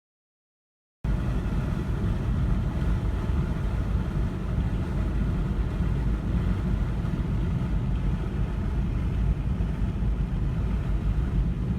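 Steady low rumble of a moving vehicle, cutting in suddenly about a second in after digital silence.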